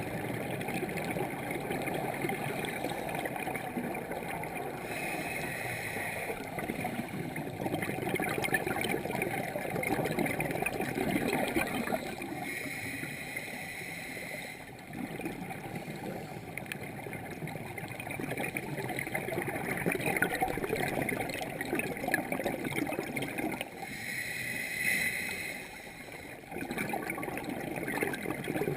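Scuba diver breathing through a regulator underwater: a steady gurgle of exhaled bubbles, broken three times by a brief hiss of inhaling.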